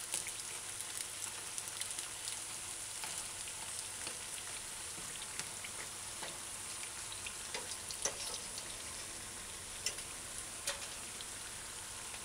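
Okra codfish fritters frying in shallow oil over medium-high heat: a steady sizzle with scattered crackles and pops.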